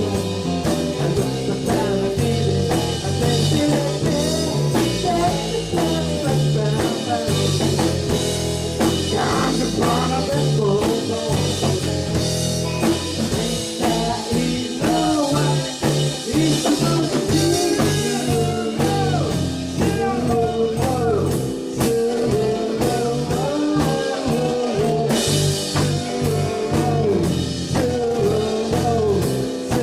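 A live rock band playing a blues-rock number with electric guitar, bass and drum kit.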